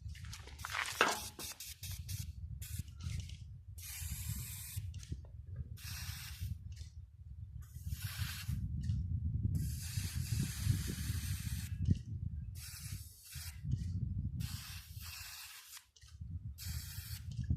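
Spray paint going on in a series of short hissing bursts with brief pauses between them, over a steady low rumble.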